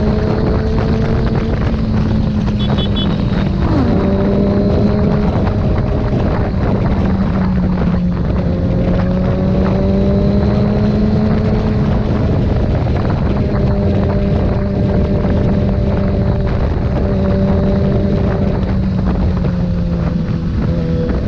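Sport motorcycle engine holding a steady high-revving note at speed, its pitch wavering only slightly, with wind rushing over the microphone.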